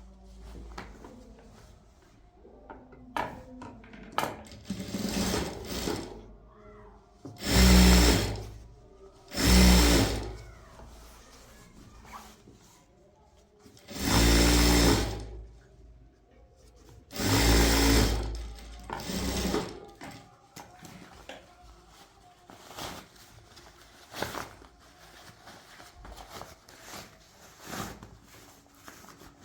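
Electric sewing machine running in short bursts of one to two seconds, about five runs in all, with quieter handling clicks and rustles between runs.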